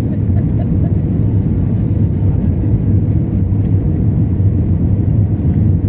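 Airbus A320 cabin noise: a steady, loud, low rumble of engines and airflow heard from inside the passenger cabin.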